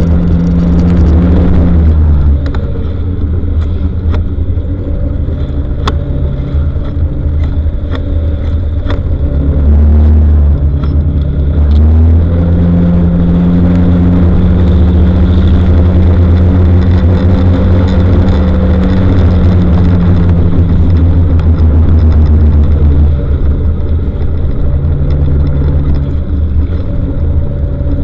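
Motor vehicle engine running with road noise, its pitch stepping up and down a few times as the revs change, with scattered light clicks.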